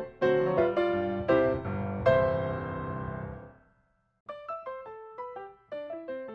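Background music: piano playing a phrase of notes, ending in a chord that dies away. After a short pause, lighter piano notes start again.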